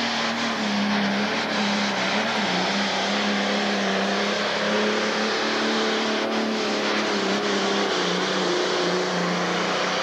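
Pro stock pulling tractor's turbocharged diesel engine running loud and steady under load as it pulls the sled, its pitch wavering slightly.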